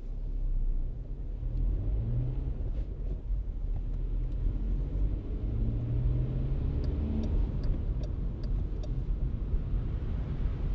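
A car driving, with a steady low rumble of engine and road noise and engine tones that rise and fall a little. A short run of about six light ticks comes a little past halfway.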